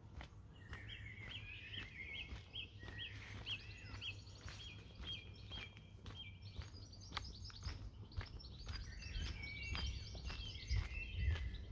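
Wild birds singing, a run of short repeated chirping notes, several to the second, with a second burst of higher chirps in the last few seconds, over a steady low rumble.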